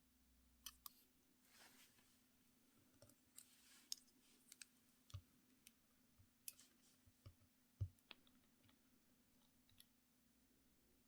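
Scattered light clicks and taps of small objects being handled, irregular and of uneven strength, with the sharpest knock about eight seconds in and a couple of soft brushing swishes early on.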